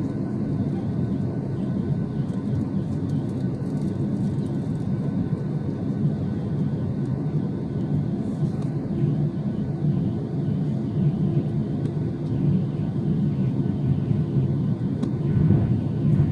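Steady low rumble of a jet airliner's engines, holding an even level without spooling up or down.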